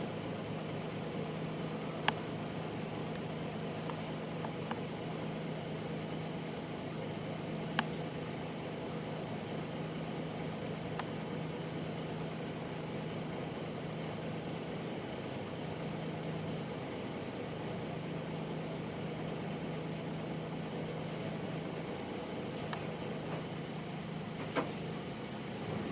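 Nissan Diesel Space Runner RM (KC-RM211) midsize bus's FE6 inline-six diesel engine running steadily, heard from inside the passenger cabin. Three sharp clicks or rattles sound over it.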